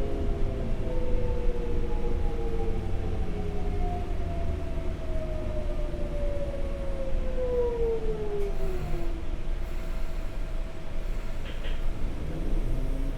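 Sotetsu 8000 series electric train slowing down: the Hitachi GTO-VVVF traction inverter's whine falls steadily in pitch under running and rail rumble, and fades out about nine seconds in.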